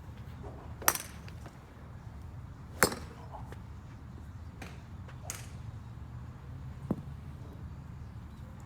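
Golf clubs striking balls: two sharp cracks about two seconds apart, then three fainter ones spread over the next few seconds.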